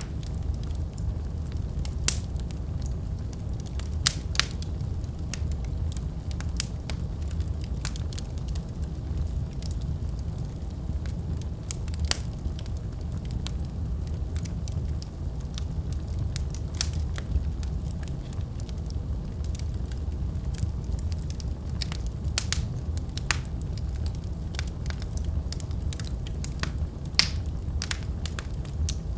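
Wood fire burning in a fireplace: a steady low rumble of the flames with scattered sharp crackles and pops, a few louder snaps among them.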